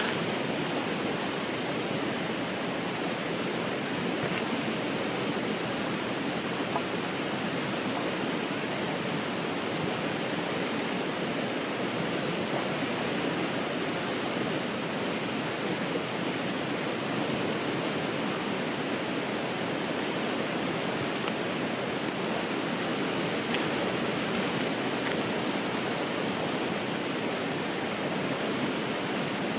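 A river's water rushing steadily, an even hiss with no breaks.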